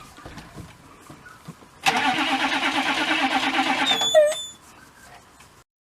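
Starter motor cranking a pickup truck's engine for about two seconds with an even pulsing rhythm, without the engine catching, beginning about two seconds in. A short squeal is heard just as the cranking stops.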